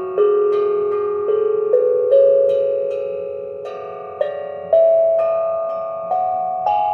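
Steel tongue drum resting on a flat table, its tongues struck one at a time in a mostly rising run of about ten notes. Each note rings on and overlaps the next like a bell, the table letting the notes resonate freely.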